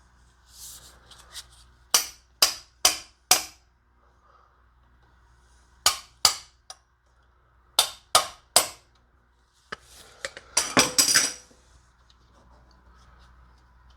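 Sharp metallic clicks and taps from hand-tool work, in groups of two to four, with a quicker cluster of knocks near the end.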